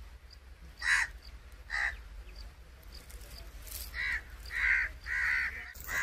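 Harsh bird calls: five short, loud cries, two spaced apart in the first two seconds and three in quick succession near the end.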